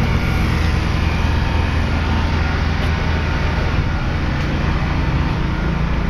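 Caterpillar G3406 naturally aspirated inline-six gas engine running steadily with a low, even hum.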